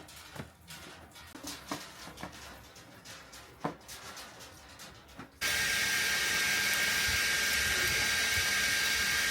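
Faint scattered ticks and taps. About halfway in, a steady, even whir with a high whine starts abruptly, like a small motor running.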